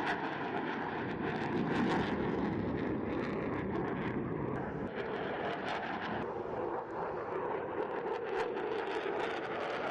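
Aircraft engine noise from a fixed-wing plane, a steady rushing sound that holds at a fairly even level with a faint steady tone in it.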